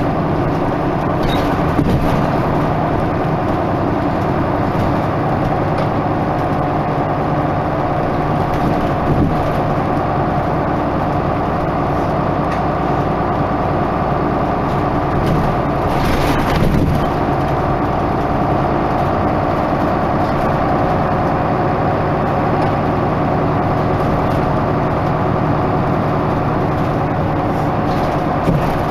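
Isuzu Erga Mio bus's diesel engine running at a steady speed, with a few brief knocks and rattles along the way.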